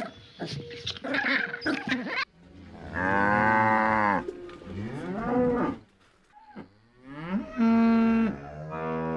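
Dogs playing, with short growls and whines, for about the first two seconds. Then a Holstein dairy cow moos twice: a long moo that bends up and down at its end, and a second long moo near the end.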